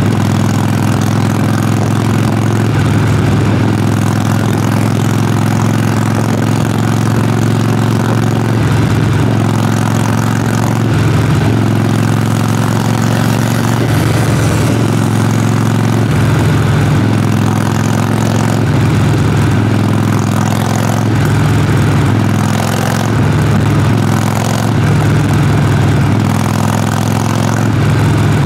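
Harley-Davidson Sportster Forty-Eight's air-cooled 1200 cc V-twin exhaust, running at low, fairly steady revs with small rises and falls in pitch.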